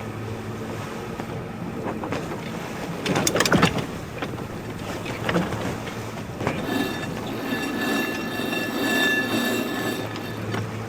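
Wind and sea noise aboard a sailing boat under way, with a cluster of knocks about three to four seconds in. About two-thirds of the way through, a steady high whistling tone sets in.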